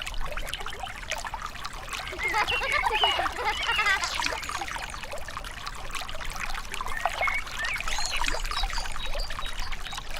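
A small stream of water trickling and pouring, with a busy, bubbling texture that swells about two seconds in and again near the end.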